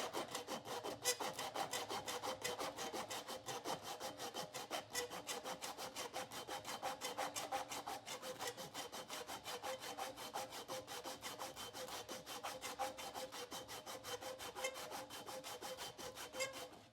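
Rapid, even back-and-forth strokes of an abrasive hand tool rubbing on the steel machete blade, about five strokes a second, with the blade ringing faintly under the strokes. The stroking stops abruptly near the end.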